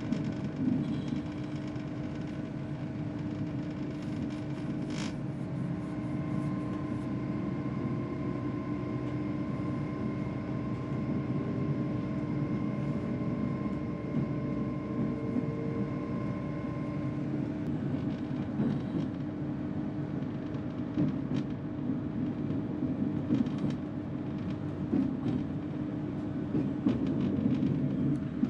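Passenger train running at speed: a steady rumble with a constant hum underneath. A faint steady whine sounds through the middle stretch, and short clicks and rattles come now and then, more often near the end.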